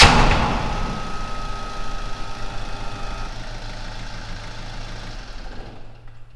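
A car engine running in an underground garage, with a sharp bang right at the start. The engine sound fades steadily and has almost died away by the end.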